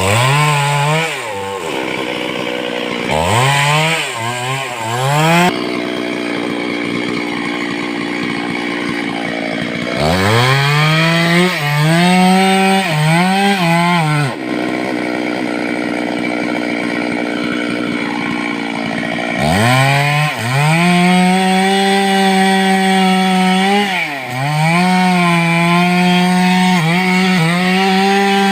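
Stihl two-stroke chainsaw revving up to full throttle and cutting through wood, its high engine note held steady with brief dips under load. It drops back to a rough idle twice between cuts.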